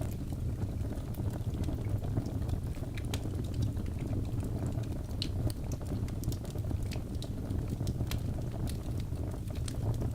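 Wood fire in a fireplace burning steadily: a low rushing rumble of flames with frequent small sharp crackles and pops from the burning logs.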